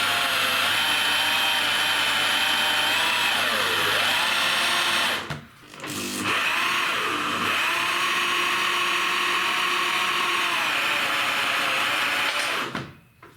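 Electric drill motor running in long runs with a steady whine whose pitch sags and recovers under load. It stops about five seconds in, starts again a second later and runs until shortly before the end.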